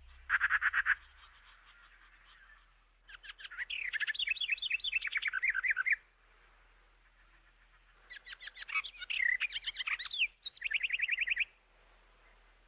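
A songbird singing: a short, fast trill near the start, then two long phrases of quick, varied chirps, the second ending in a rapid trill.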